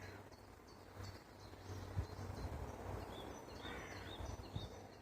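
Songbirds calling in the countryside: many short, high chirps repeating throughout, with a lower call at the start and again near the end. Low rumbling runs beneath, with a single thump about two seconds in.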